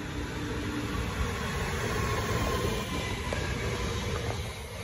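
Trenitalia Pop electric regional train passing at speed close by: a steady rush of wheel and rail noise and moving air.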